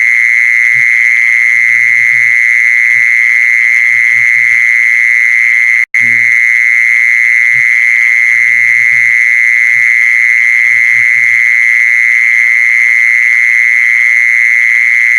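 Recorded call of a female khmol animal played back as a calling lure: one unbroken, steady, high-pitched tone, cutting out for an instant about six seconds in.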